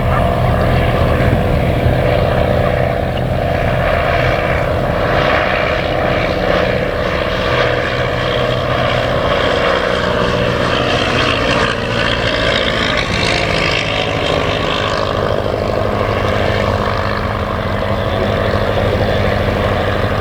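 Piston-engined propeller aircraft running steadily, its engine note dipping slightly in pitch about halfway through.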